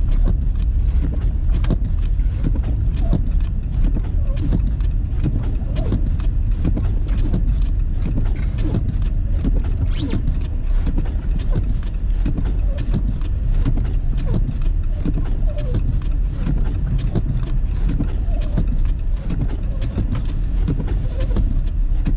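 Car driving on snowy roads, heard from inside the cabin: a steady low rumble of road and engine noise, with frequent small clicks and knocks and one sharper knock about ten seconds in.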